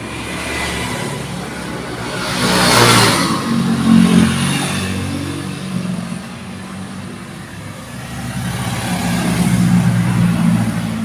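A motor vehicle engine running, swelling louder twice, about three seconds in and again near the end, the first swell with a brief rushing noise.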